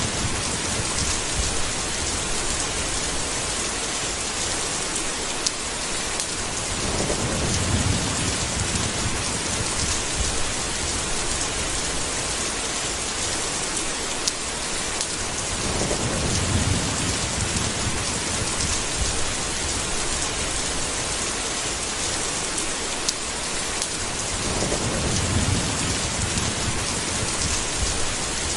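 Steady heavy rain hiss in a thunderstorm, with low rolls of thunder swelling and fading about every nine seconds, four times.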